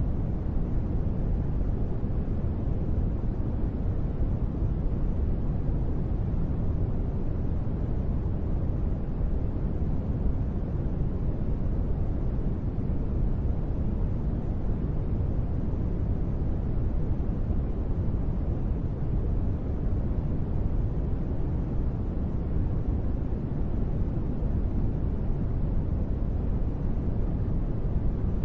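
Steady, deep rushing noise, strongest in the low range and muffled at the top, with no separate drops, pauses or changes: a continuous sleep-noise ambience billed as gentle rain.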